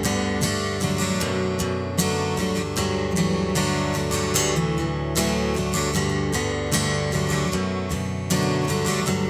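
Acoustic guitar strummed in a steady rhythm: an instrumental passage of a song with no singing.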